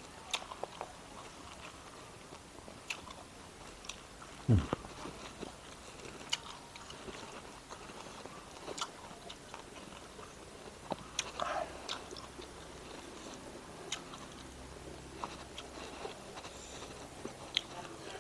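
Close-up chewing and mouth sounds of someone eating, with small scattered clicks and one low thump about four and a half seconds in.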